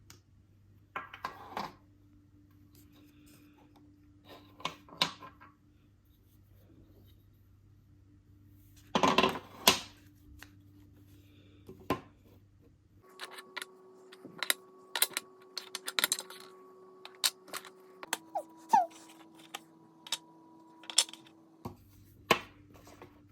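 Wooden puzzle pieces clicking and knocking against each other and the wooden board, in scattered taps that come thicker in the second half, over a faint steady hum.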